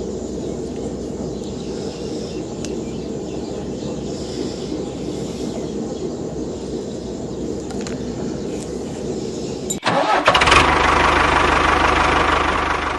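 An engine running steadily. About ten seconds in, the sound cuts abruptly to a louder, rougher engine noise.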